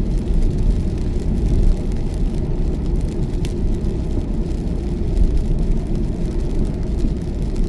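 Steady low road and tyre rumble of a car at motorway speed, heard inside the cabin.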